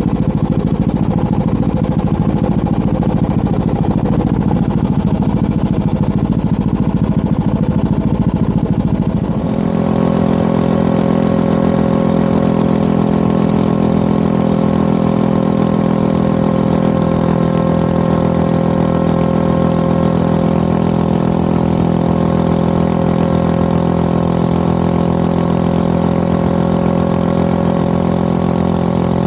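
Motorcycle engine running under rushing wind noise, then about nine seconds in the wind drops away abruptly, leaving a steady, even engine note.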